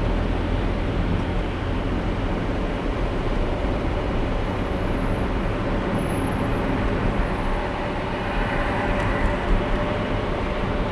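Steady road and tyre noise with a low engine hum from a car driving on a highway, heard from the dashcam inside the car; a couple of faint ticks near the end.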